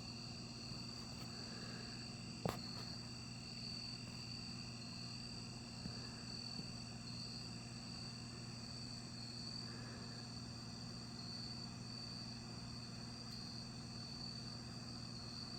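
Steady night chorus of crickets: one continuous high-pitched trill over a low steady hum. A single sharp click sounds about two and a half seconds in.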